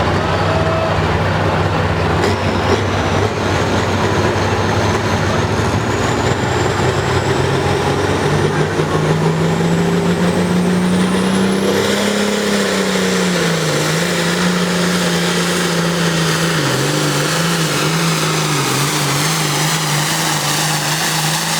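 John Deere 6030 pulling tractor's diesel engine running flat out under heavy load as it drags the weight sled down the track. The engine pitch climbs partway through, then wavers and sags a little in the later part as the sled bears down. A faint high whine rises along with it.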